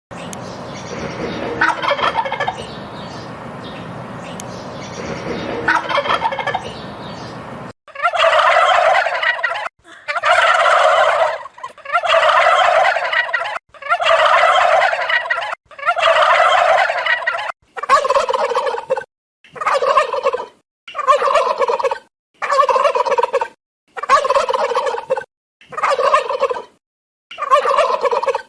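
Turkey gobbling again and again, each gobble a quick rattling call. The first few seconds have a noisy background under two gobbles. Then the gobbles come about every two seconds, turning shorter and about one a second in the last third.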